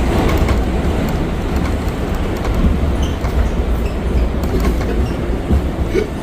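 R179 subway car running between stations, heard from inside the car: a steady rumble of wheels on the rails, with a few light clicks over it.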